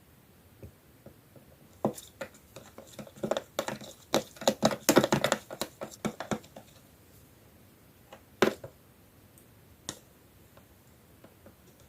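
Slime being handled by hand: a quick run of small wet clicks and pops for about five seconds, then a couple of single clicks near the end.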